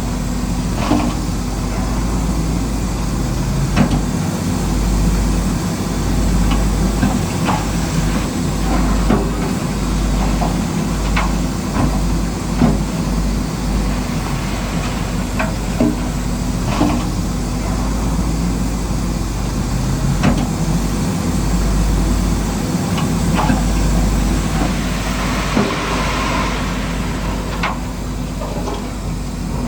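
Radio-controlled model bulldozer running: a steady motor-and-gear hum, with frequent short sharp clicks and knocks of rock being pushed.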